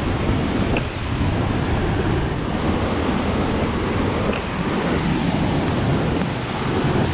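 Fast-flowing stream rushing steadily, a loud continuous wash of water.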